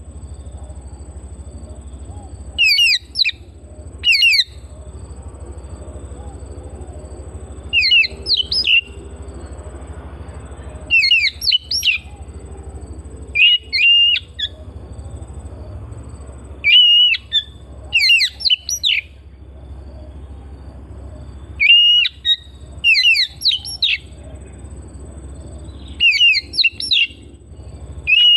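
Oriental magpie-robin (kacer) calling in short, rapid bursts of high chirps, about a dozen phrases spaced one to three seconds apart, over a steady low hum.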